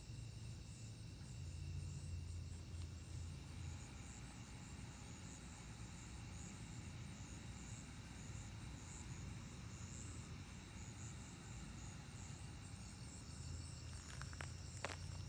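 Night insect chorus: crickets and other insects trilling steadily, some in a fast pulsing rhythm, over a low steady hum. A few light clicks or taps near the end.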